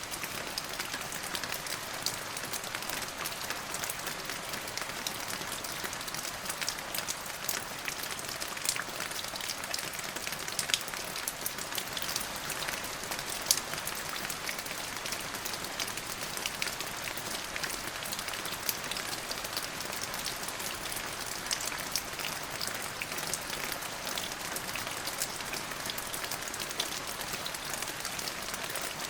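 Steady rain: an even hiss with many separate drop hits ticking through it. No thunder.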